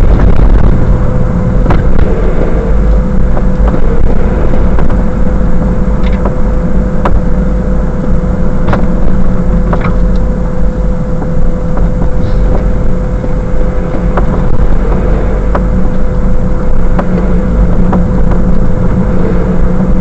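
Car cabin noise while driving: a loud, steady low rumble with a thin steady whine above it and scattered light clicks and ticks.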